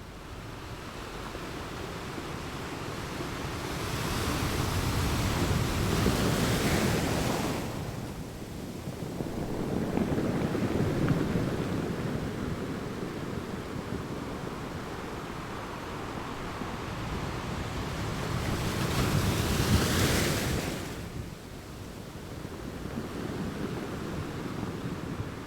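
Sea waves breaking and washing in, swelling and ebbing slowly. The loudest breakers come about a quarter of the way in and again about three quarters through, with a smaller one in between.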